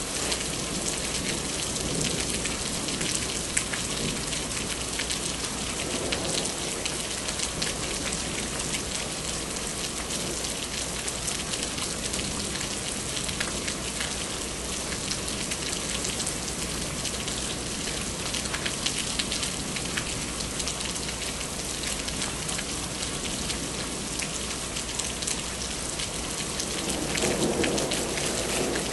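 Rain falling steadily during a night thunderstorm, a dense patter of drops on surfaces. A low rumble of thunder swells near the end.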